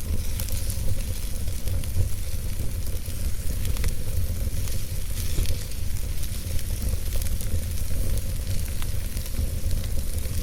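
Campfire burning: a steady hiss with frequent small snaps and pops scattered through it, over a low rumble.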